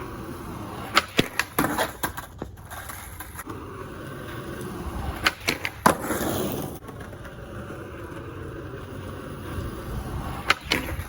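Skateboard wheels rolling on concrete, broken by several sharp clacks of the board popping and landing. About six seconds in there is a short scraping stretch, a grind on the ledge.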